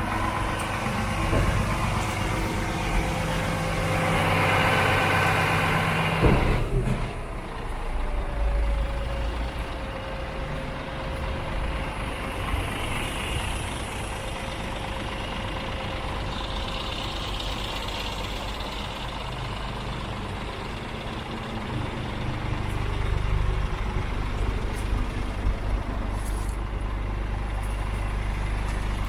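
Scania G410's six-cylinder diesel engine running at a steady idle. The engine gets louder for a couple of seconds about four seconds in, and there is a sudden knock just after six seconds.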